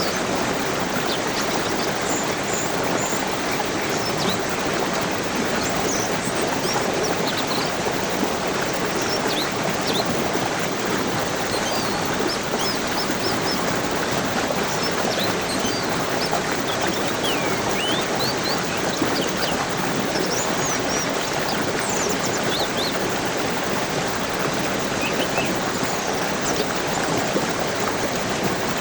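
Steady rushing of a stream, with short bird chirps scattered through it.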